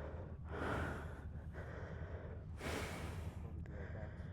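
A person breathing heavily: two loud, rushing exhalations, about half a second in and again about two and a half seconds in, over a steady low rumble.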